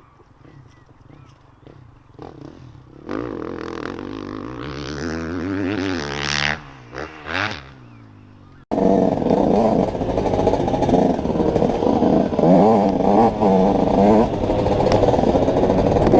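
Two-stroke dirt bike engine revving up, its pitch rising, then two short throttle blips. About nine seconds in, this is abruptly replaced by a louder, steady engine sound of a bike being ridden.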